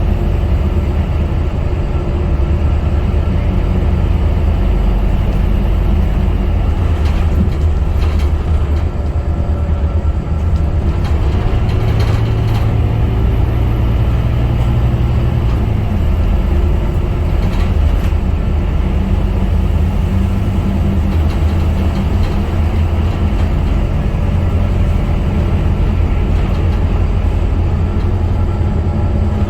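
Scania K250UB city bus's diesel engine running steadily under way, a deep continuous drone whose pitch shifts a little in places, with a few short clicks or rattles.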